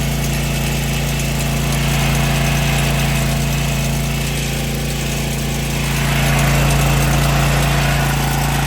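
Engine-driven welding generator running steadily at a constant speed, with a hiss over it that swells and fades.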